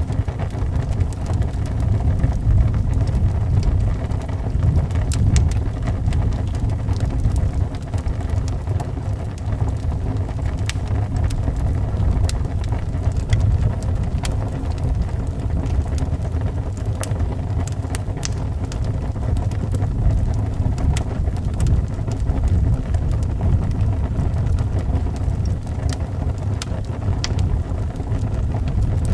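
Wood fire crackling with scattered sharp pops over a steady low rumble of wind.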